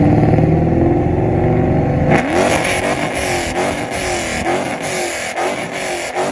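Dodge Challenger's engine revving hard for about two seconds, then cutting off abruptly; music with guitar follows.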